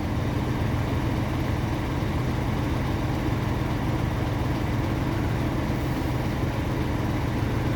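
The boatyard crane's heavy diesel engine running steadily as it lifts the boat, a constant low hum.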